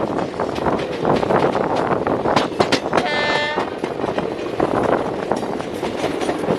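Passenger train running, a steady loud rattle and clatter of the coach. About three seconds in, a short train horn toot sounds for about half a second.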